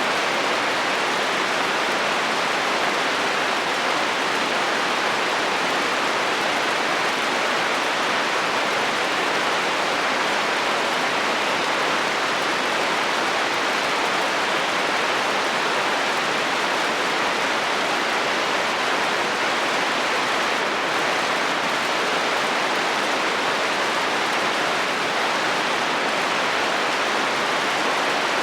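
Heavy rain falling steadily on a metal roof, an even hiss that does not change.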